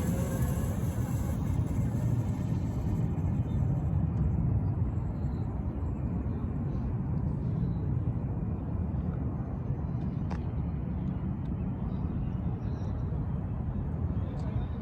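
Steady low outdoor rumble, with a faint click about ten seconds in.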